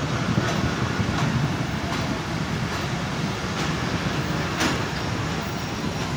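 Pakistan Railways passenger coaches rolling past on departure: a steady rumble of steel wheels on rail, with a sharp clack about once a second as the wheels run over rail joints.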